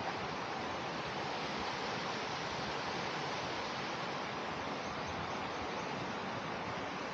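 Water rushing steadily over the low, wide cascades of Chet Sao Noi Waterfall, an even hiss with no breaks.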